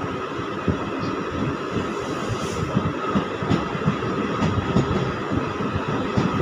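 Passenger train running at speed, heard from its open doorway: steady wheel-on-rail noise with many irregular knocks and rattles, as another train's coaches pass close by on the next track.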